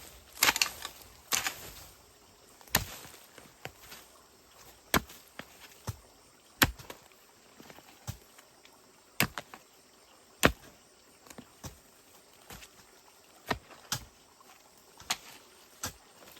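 A hand tool chopping, about one sharp strike every second at an uneven pace, some strikes louder than others.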